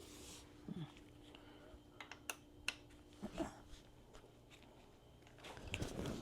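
Scattered light clicks and taps of hand tools and parts being worked by hand on a motorcycle, with a cluster about two seconds in and a few more near the end.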